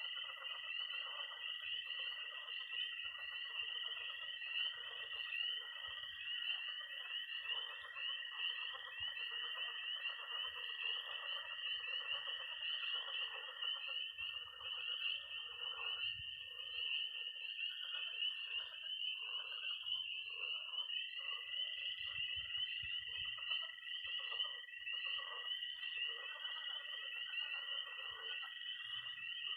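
Night pond chorus of peeping tree frogs calling densely and continuously, with a long, steady high-pitched toad trill that stops about halfway through and starts again near the end, over lower croaking frogs.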